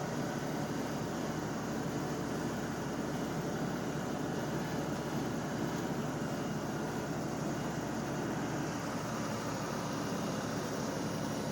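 LS compact tractor's diesel engine running steadily.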